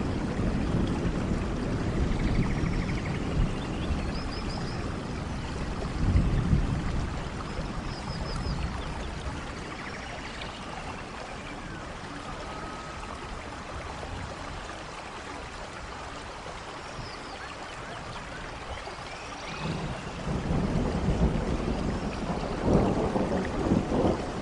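Steady forest rain with rolling thunder: low rumbles at the start and around six seconds in, easing off for a while, then building again near the end. A few faint high chirps sound through the rain.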